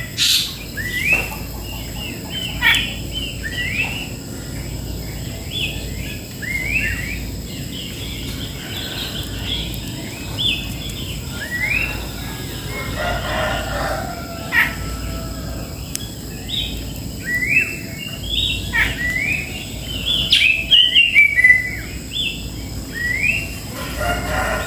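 Several songbirds chirping on and off in short, quick, rising notes, busiest near the start and again after about 18 s. A rooster crows about halfway through.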